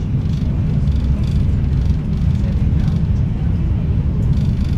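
Steady low rumble of an Italo high-speed train running at speed, heard from inside the passenger car.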